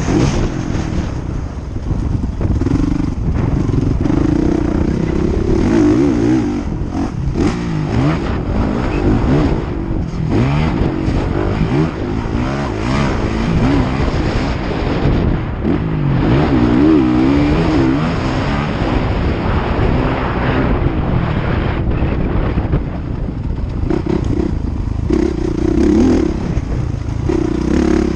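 Motocross bike engines revving hard and easing off over and over, the pitch rising and falling with each throttle change.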